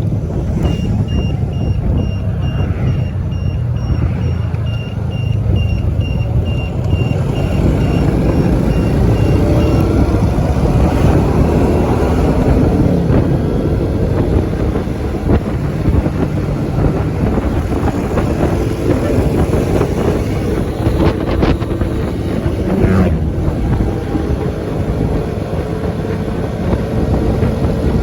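Road traffic with vehicle engines running and passing, their pitch rising and falling. An electronic beeper pulses about one and a half times a second for the first ten seconds, and there are a couple of sharp knocks later on.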